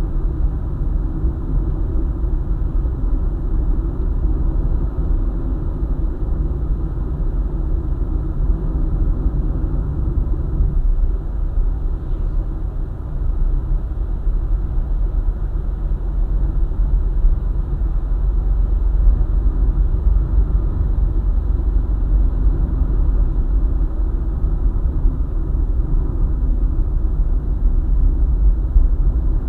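Car driving along a highway: a steady low rumble of tyres and engine at cruising speed.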